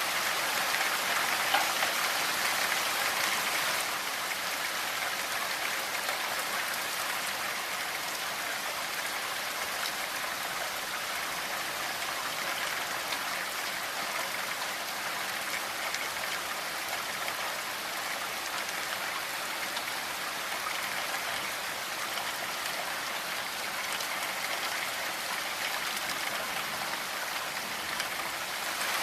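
Steady rainfall, an even hiss of falling rain with scattered drop ticks, a little heavier for the first few seconds.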